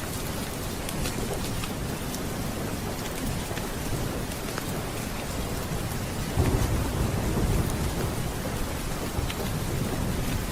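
Steady heavy rain with rolling thunder, a louder low rumble of thunder swelling about six seconds in, and scattered small sharp ticks over the rain.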